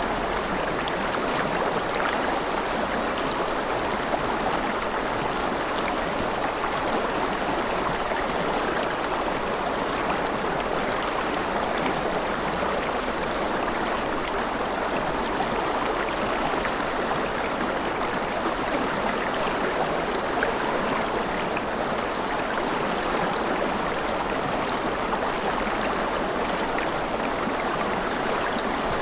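River water flowing and splashing in a steady, even rush, with small trickling and splashing close by.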